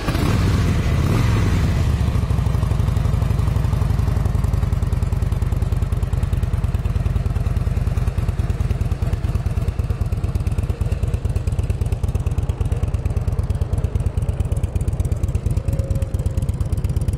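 2006 Harley-Davidson Softail Deluxe's fuel-injected Twin Cam 88 V-twin, just fired up, revving briefly, then settling into a steady idle with an even, rapid pulse. It runs through what looks like an aftermarket exhaust.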